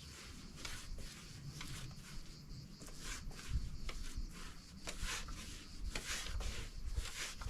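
Repeated rubbing or brushing strokes on a surface, irregular, about one or two a second.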